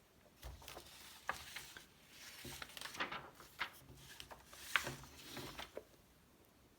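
Magazine pages being handled and turned by hand: paper rustling and sliding, with several sharp crinkles.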